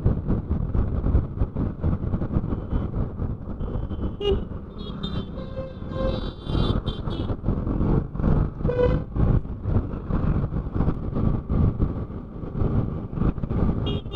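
Wind buffeting the microphone while riding a motorcycle in highway traffic, with vehicle horns honking about four to seven seconds in and again at the end.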